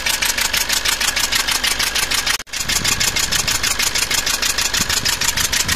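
Maruti Swift Dzire's 1.3-litre four-cylinder diesel engine idling with a sharp, rapid puffing tick repeating evenly several times a second. It is compression gas blowing past a failed copper seating washer under a fuel injector: a compression leak at the injector.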